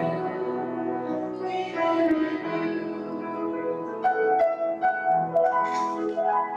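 Hymn music: piano with singing voices, sustained chords moving from note to note toward the end of a phrase.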